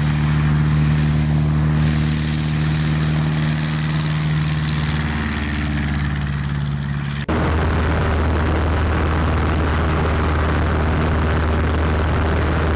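Light aircraft's piston engine and propeller running steadily with a low drone. About seven seconds in it cuts abruptly to another steady engine recording with more hiss.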